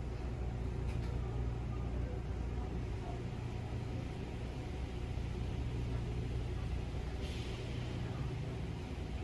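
Steady low rumble of car wash machinery. About seven seconds in there is a brief hiss of spray or air.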